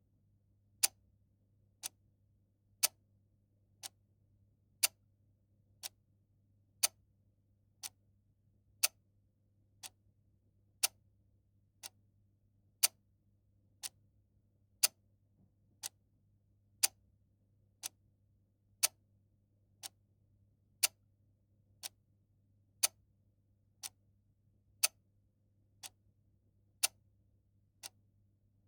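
A clock ticking steadily once a second, the ticks alternating louder and softer in a tick-tock pattern. A faint steady low hum runs underneath.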